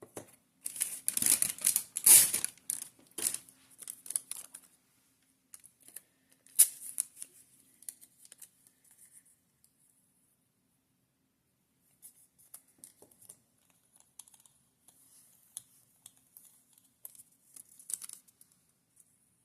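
Paper scraps being handled: rustling and tearing, loudest in the first few seconds with another sharp rip a few seconds later, then softer scattered crinkling.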